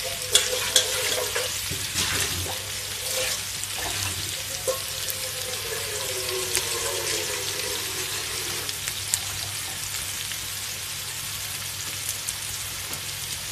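Shallots, garlic, onion and ground spice paste sizzling steadily in hot oil in a wok while being sautéed, with a few sharp crackles or ticks.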